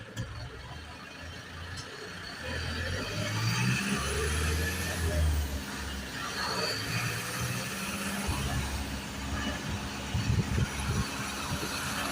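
Isuzu garbage truck's engine running as the truck drives, its low note stepping up and down and getting louder about two and a half seconds in.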